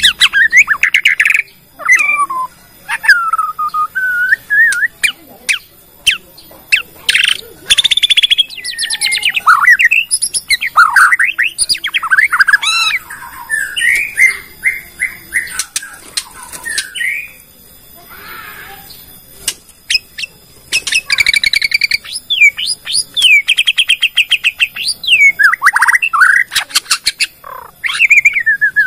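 Bornean white-rumped shama singing a long, varied song: loud whistled phrases that glide up and down, mixed with rapid rattling clicks, as it runs through its repertoire of mimicked calls. The song breaks off briefly partway through, then resumes.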